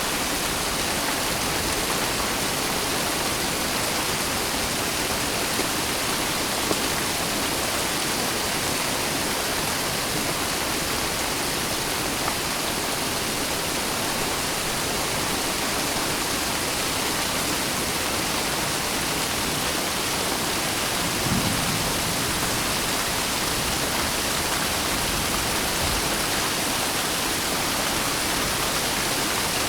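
Steady rain falling, an even unbroken hiss, with a brief low thump about two-thirds of the way in.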